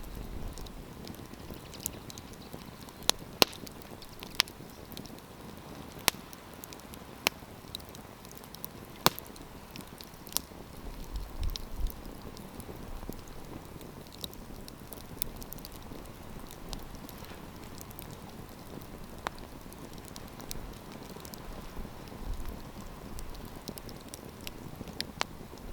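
Wood campfire crackling steadily, with irregular sharp pops from the burning logs, several of them loud in the first half.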